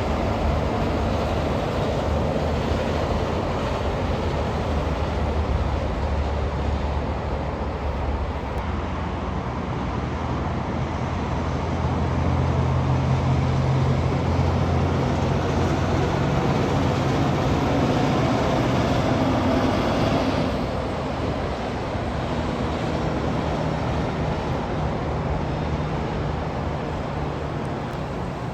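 Heavy diesel trucks passing on the road: a low engine drone with tyre and road noise, growing louder through the middle and dropping off sharply about two-thirds of the way through.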